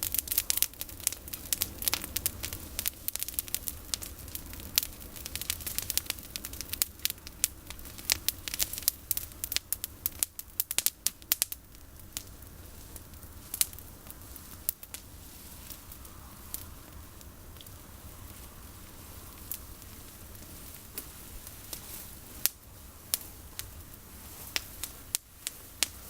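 Campfire of pruned olive branches crackling, with a dense run of sharp snaps for about the first twelve seconds that thins to scattered pops.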